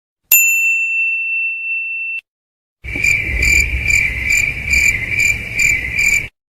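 A single bright bell-like ding that rings for about two seconds and is cut off, then, after a short gap, a high ringing tone pulsing about three times a second for about three and a half seconds.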